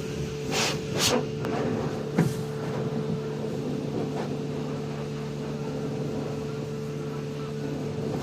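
Steady mechanical hum of a car wash tunnel heard from inside the car, with a few short knocks in the first couple of seconds.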